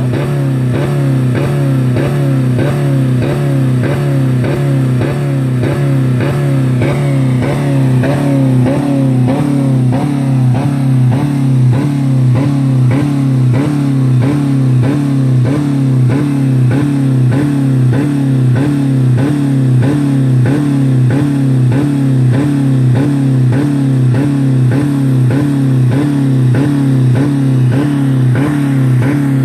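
2000 Dodge Neon's 2.0-litre four-cylinder engine held at high revs on the rev limiter, its note pulsing evenly about one and a half times a second. It is running with no oil or coolant left in it.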